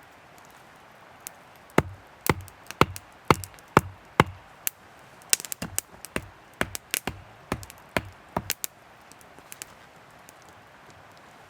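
Wood being chopped: a run of sharp strikes with a dull thud in each, about two a second, starting a couple of seconds in and stopping about three seconds before the end.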